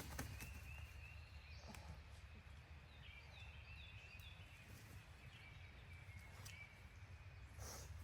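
Quiet outdoor ambience: faint, distant songbird calls, with a run of short falling notes a few seconds in, over a low wind rumble and a few scattered clicks.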